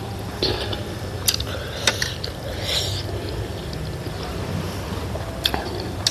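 Close-miked eating sounds of a person chewing steamed momos, with a few short sharp clicks, the last of them near the end.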